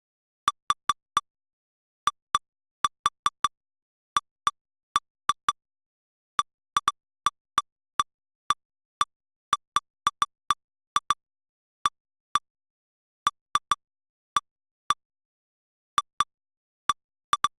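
Short electronic blips, each the same pitched pip, coming at irregular intervals, sometimes two or three in quick succession and sometimes a second or more apart. Each one is a strike-alert sound from lightning-detector software replaying recorded strikes.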